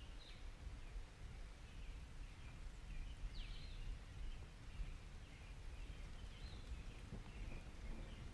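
Faint birdsong: scattered short chirps and quick up-and-down calls over a steady low rumble of background ambience.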